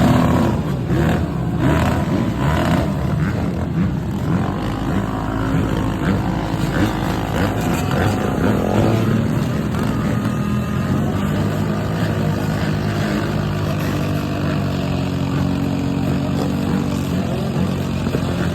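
Motorcycle engines running steadily in street traffic, with one engine revving up and back down about halfway through.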